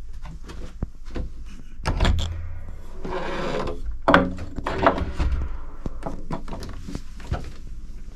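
Knocks, thuds and footsteps of someone moving through an old wooden house and going downstairs, with creaking sounds about three and four seconds in, over a low rumble of handling noise.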